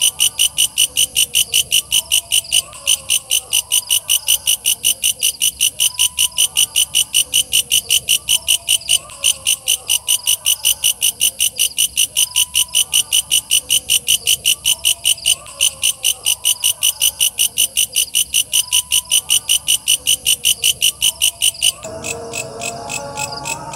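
Walang kecek bush cricket calling: a steady run of sharp, high chirps at about four a second. Near the end the calling turns quieter and closer-set.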